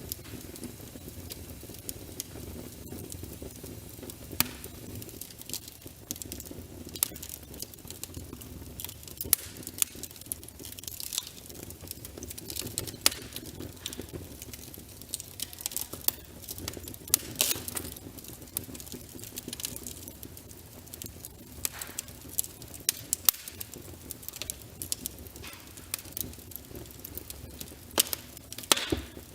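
Wood fire burning in a fireplace: a steady low rumble with frequent irregular crackles and sharp pops from the burning logs, a few louder snaps scattered throughout.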